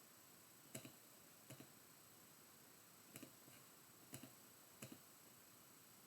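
Near silence with about five faint clicks, several in quick pairs, spaced irregularly.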